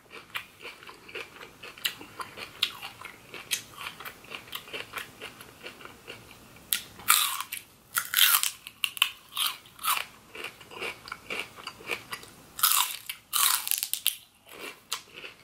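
Crunching and chewing of a raw green vegetable stick, steady small crunches throughout, with louder crisp bites about seven seconds in and again near the end.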